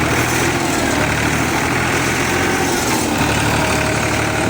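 Tractor engine running steadily and loudly under load as the stuck tractor tries to pull itself free, with a faint whine over the low engine note.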